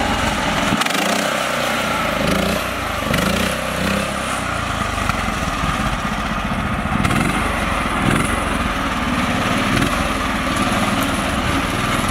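Mini tractor's small engine running steadily, with small rises and falls in pitch.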